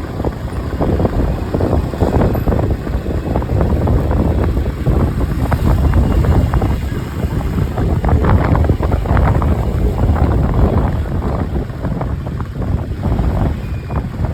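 Wind buffeting the microphone on a moving motorcycle, gusting unevenly, with the motorcycle's running engine and road noise beneath.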